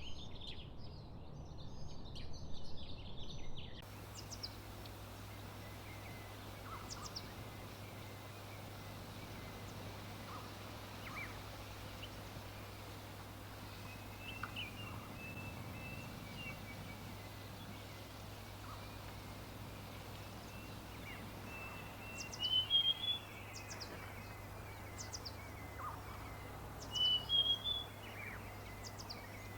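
Birds calling: a dense, busy twittering of several birds for about the first four seconds, then, after a sudden change, scattered short high chirps and a few brief warbled phrases over a steady low hum.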